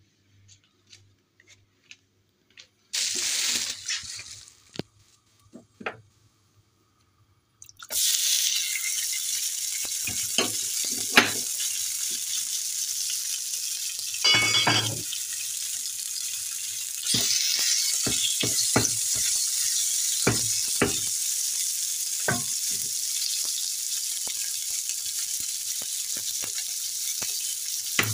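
Chopped vegetables sizzling in a frying pan, with the clicks and scrapes of a utensil stirring them. The steady sizzle starts suddenly about eight seconds in.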